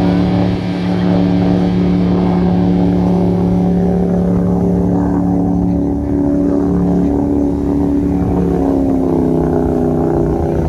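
Boat engine running steadily, its pitch easing down slightly about six seconds in and again near the end.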